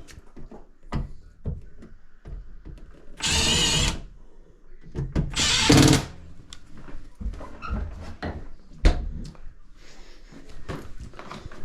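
Cordless drill running in two short bursts about a second and a half apart, amid handling clatter and a sharp knock.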